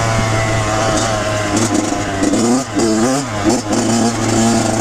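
Kawasaki KX100 two-stroke dirt bike engine running under way, its pitch dropping and climbing back twice about three seconds in as the throttle is eased off and opened again.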